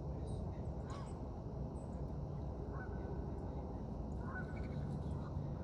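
Short bird call notes, a few scattered through the time, over a steady low rumble.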